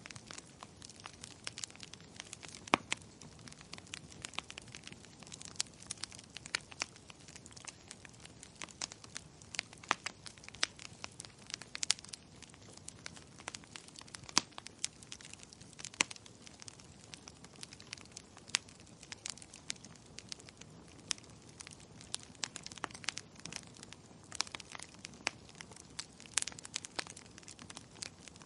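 Fireplace fire crackling: irregular sharp pops and snaps, several a second, with a few louder ones standing out, over a faint hiss of the flames.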